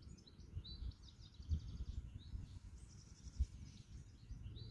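Songbirds singing, with quick high trilled phrases, over a steady low rumble. There are two brief thumps, one about a second and a half in and one near the end.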